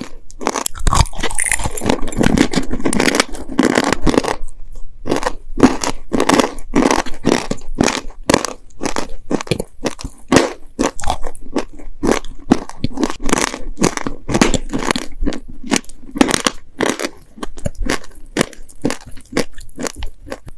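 Close-miked chewing of dry, sandy clay cookies: gritty crunching, dense for the first few seconds, then separate crunches, about two or three a second.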